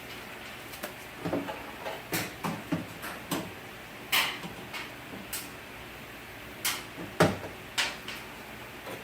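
Irregular clunks, clicks and scrapes of a window regulator and motor assembly being handled and worked into a car door, about a dozen sharp knocks, the loudest a little after seven seconds in.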